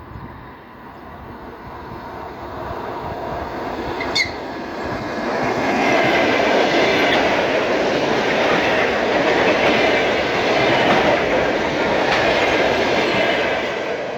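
A train passing by on the rails, its running noise building over several seconds, loudest through the middle, then easing off near the end. A brief high squeak sounds about four seconds in.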